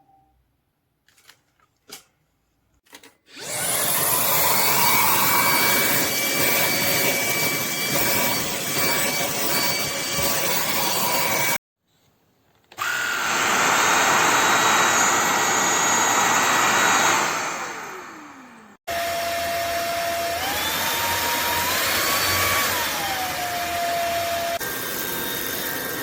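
Lubluelu cordless stick vacuum's motor running at full suction in several cut-together runs, after a few clicks. In one run it winds down with a falling whine. In the last, its whine steps up in pitch twice and then glides back down, as its power setting changes.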